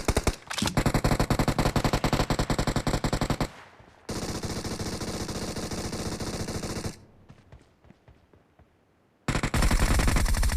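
Video-game automatic gunfire in fast bursts of roughly ten shots a second. Near the middle it gives way to about three seconds of steady rushing noise, then a couple of seconds of silence, before the rapid fire starts again near the end.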